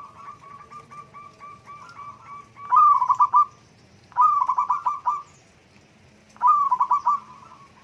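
Zebra doves (perkutut) cooing: a soft, quick run of repeated notes, broken three times by a loud, rippling coo phrase about a second long.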